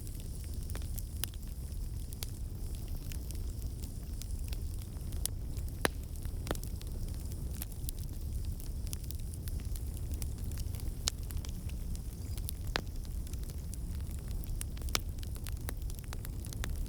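Fire burning in a fireplace: a steady low rumble of flames with scattered sharp crackles and pops at irregular intervals, a few of them louder than the rest.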